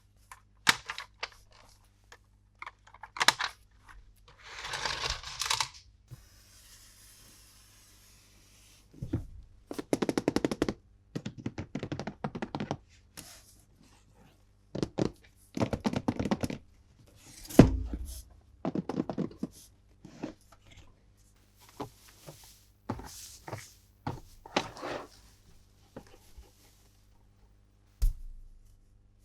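Hands handling plastic toy packaging and small plastic and die-cast toy pieces: a string of clicks, knocks and scrapes, with stretches of rapid rattling clicks and a short rustle. One heavier thump comes a little past halfway.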